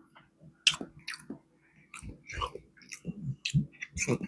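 Close-up mouth sounds of a person chewing, with irregular short smacks and clicks a few times a second.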